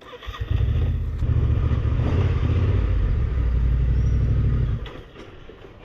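A vehicle engine running steadily with a low rumble, stopping fairly abruptly about five seconds in.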